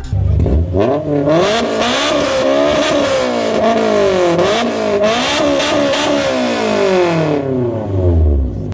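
A car engine revved hard through its exhaust, over and over, its pitch climbing and dropping in quick repeated sweeps. There is a deep low rumble at the start and again just before it cuts off abruptly.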